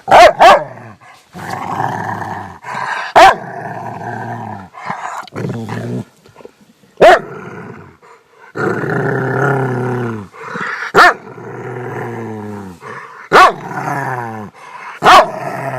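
A dog barking, about seven loud sharp barks a few seconds apart, with longer drawn-out growling between them.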